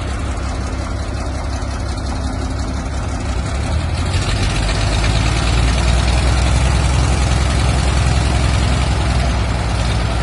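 Heavy tractor engine running steadily, getting louder and heavier in the low end about four seconds in.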